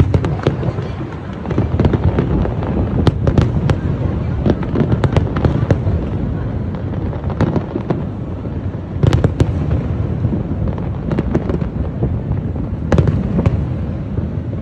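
Fireworks display: a continuous low rumble of booms under rapid crackling pops, with loud clusters of bangs about three, nine and thirteen seconds in.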